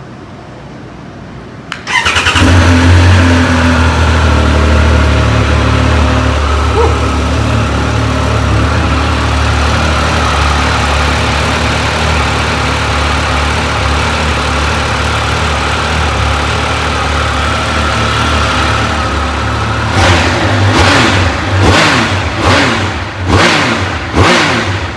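Triumph motorcycle engine starting suddenly about two seconds in and settling into a steady idle, then revved in about five quick throttle blips over the last few seconds.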